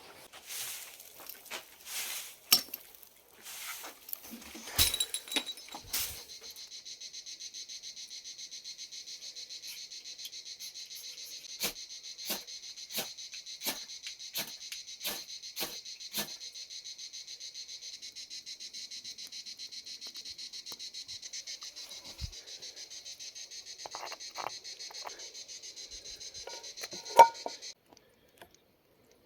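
Steady, fast high-pitched insect chirring, most likely crickets, that starts abruptly about six seconds in and cuts off shortly before the end. Scattered sharp clicks and knocks come over it, the loudest near the end.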